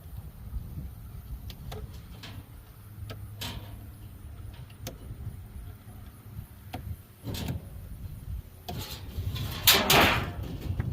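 Scattered clicks and knocks with a few brief scraping sounds from working on a scrapped refrigerator, the loudest and longest scrape near the end.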